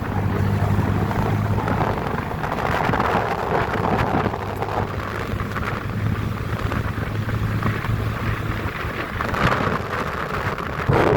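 Motorcycle engine running while riding, with heavy wind noise buffeting the microphone.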